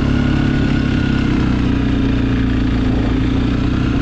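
Suzuki KingQuad ATV's single-cylinder four-stroke engine running steadily, picked up by the camera's built-in microphone.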